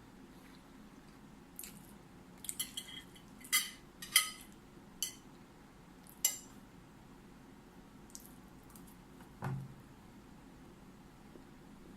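Cutlery clinking against a plate or bowl during a meal: a run of short, sharp taps with a brief ring, several close together, then a soft thump later on.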